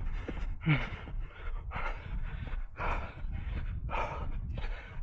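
A runner's heavy, rapid panting, about two breaths a second, from hard effort late in a fast 5 km run.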